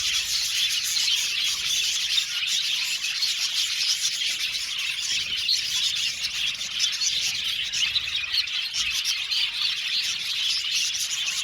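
A flock of budgerigars chirping and chattering together, many overlapping high calls without pause.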